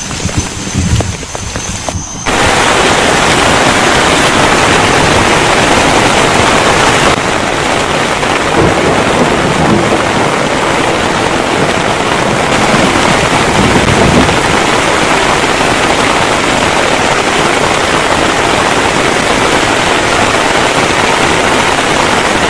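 Heavy rain pouring down steadily, coming in suddenly about two seconds in after a quieter start with a few low knocks.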